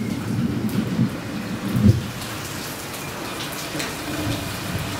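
Steady rain falling, with a low rumble through the first two seconds that fades away.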